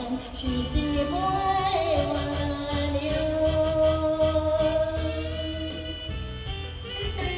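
A sung pop song: a voice holding long notes over a steady bass beat and band accompaniment.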